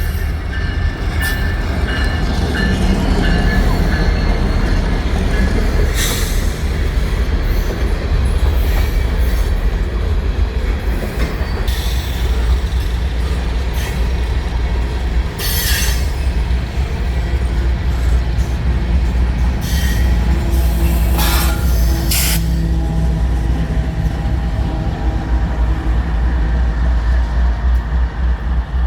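A train rolling past with a steady low rumble. Its wheels give several brief high-pitched squeals along the way.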